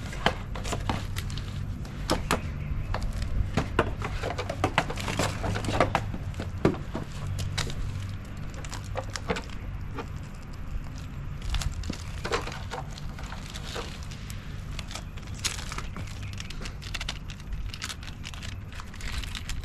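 Irregular clicks, taps and light rattles of hands handling small hardware and packaging, over a steady low hum.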